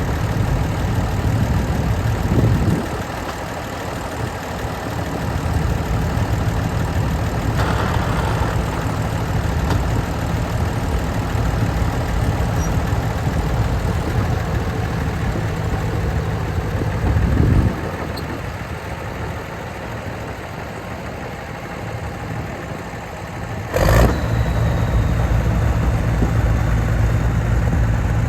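Vehicle engine running with a steady low hum, dropping quieter twice and coming back up, with a sharp knock near the end.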